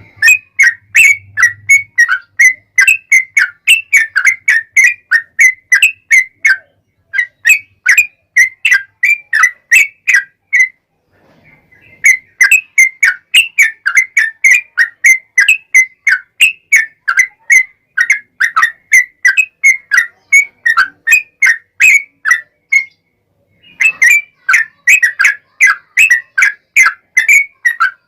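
Yellow-vented bulbul (trucukan) singing a long, rapid run of bubbly whistled notes, about four a second, pausing briefly twice.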